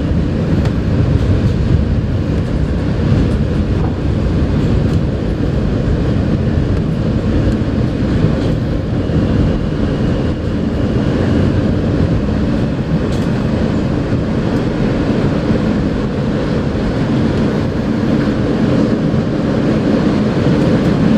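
Steady rumble and rail noise heard inside an R160A New York City subway car running at speed between stations.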